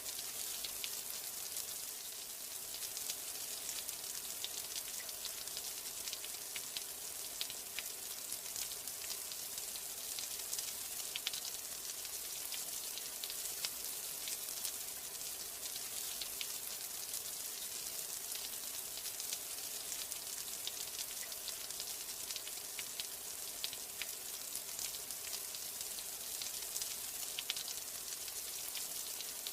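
Steady rain: an even hiss thick with many small drop ticks, unchanging throughout.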